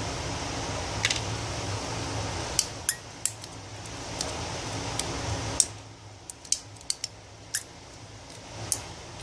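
Sharp, small metallic clicks, about a dozen at irregular intervals, from a Cobra derringer being handled and worked after reassembly. They sound over a steady background hum that drops away suddenly about halfway through.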